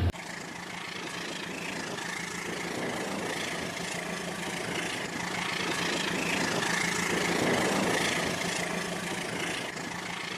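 RailKing model train running on its track, a steady rumbling hum of motor and wheels on rail. It grows louder for about seven seconds and then fades a little, as if passing by.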